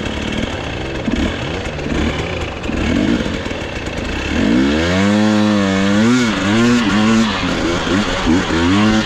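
Dirt bike engine revving in repeated rising and falling bursts, rougher and lower for the first few seconds, then loud pitched revs from about four seconds in.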